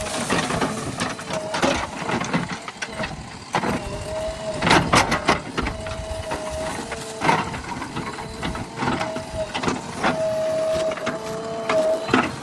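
JCB 3DX backhoe loader at work: a whining tone that comes and goes in stretches of about a second, over the engine, with repeated sharp clanks and knocks.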